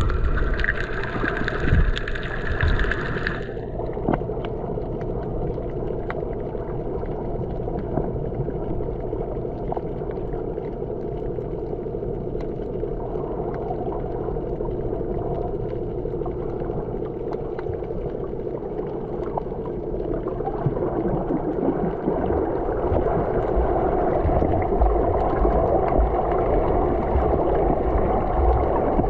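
Water rushing and gurgling along the hull of a sailboat under way, with wind rumbling on the microphone. A brighter hissing splash stops about three and a half seconds in, and the water noise grows louder in the last third.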